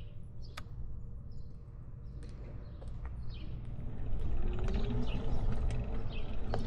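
Low rumble of wind and tyres from a moving Mooncool TK1 electric trike, getting louder about four seconds in, with short high bird chirps repeating over it and a few sharp clicks.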